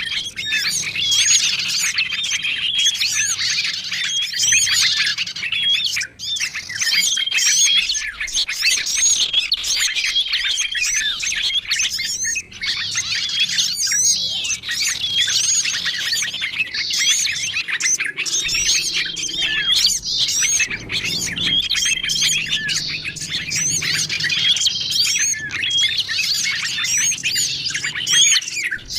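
Bird-luring recording of small songbirds: a dense, unbroken chorus of high chirps and twitters, with a short level whistled note coming back every second or two.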